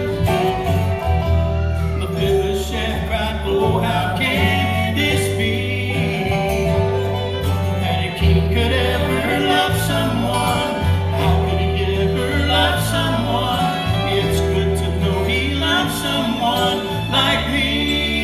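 Gospel vocal group singing with a bluegrass-style acoustic band; the music is continuous.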